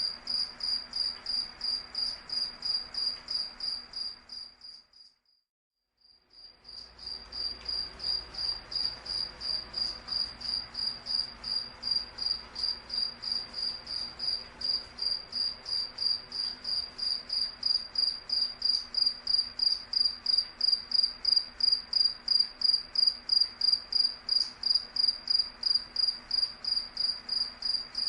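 Cricket chirping in a steady, even rhythm of about three high-pitched chirps a second. The sound fades out a little after four seconds in, stops for over a second, then resumes.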